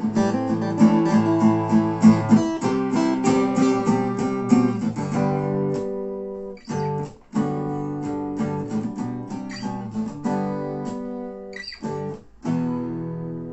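Two acoustic guitars playing an instrumental break in an Americana-style song. Strummed chords give way to sparser picked notes about halfway through, with two short gaps in the playing.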